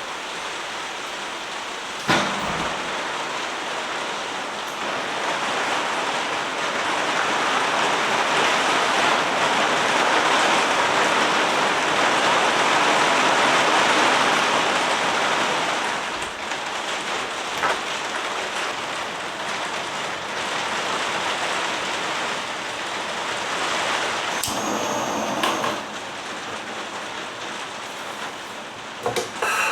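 Heavy rain, a steady hiss that swells louder through the middle and eases back about two-thirds of the way through, with a few sharp knocks.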